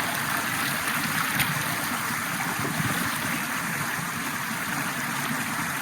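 Small rainforest creek flowing, a steady even rush of water.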